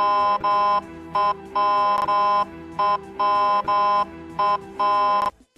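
Ambulance electronic siren sounding its alert tone: a loud, buzzing horn-like note of steady pitch pulsed in a repeating short-long-long pattern over a fainter steady lower tone, stopping shortly before the end. It is the attention tone used at crossings where people are not making way.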